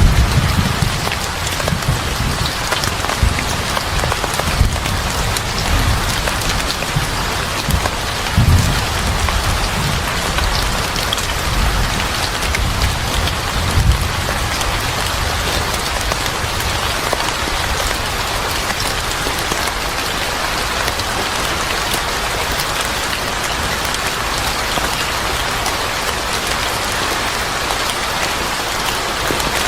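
Steady heavy rain pattering on a surface, with deep low rumbles swelling several times in the first half before the sound settles into an even downpour.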